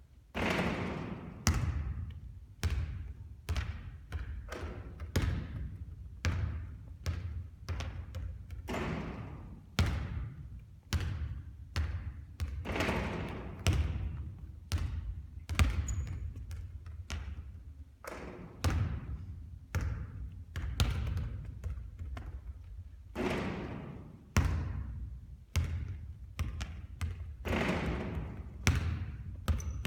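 Basketballs bouncing and thudding on a court in an irregular run of sharp hits during continuous three-point shooting practice. Some hits ring on for about a second.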